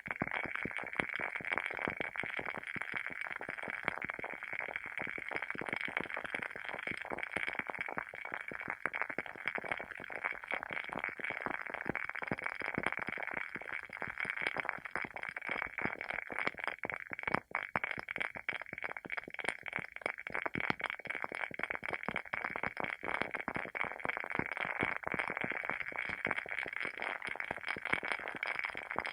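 Wooden candle wick burning, a steady stream of rapid, uneven crackles and small pops like a tiny fire.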